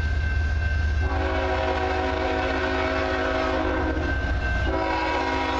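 CN freight locomotive's air horn sounding a long chord about a second in, its notes shifting near the end, over the steady low rumble of the diesel locomotives passing.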